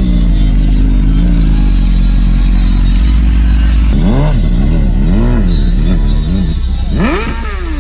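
A car engine running steadily, then revved in about four quick blips, then one longer rev that climbs and falls away near the end.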